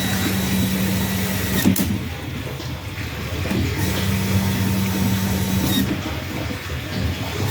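Electric household water pump running with a steady low hum. The hum drops out twice, about two seconds in and again near the end, each time with a click, and comes back.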